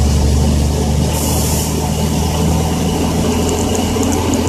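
Cat C10 diesel engine of a loaded dump truck running steadily on the road, with a brief hiss about a second in and faint light ticks near the end.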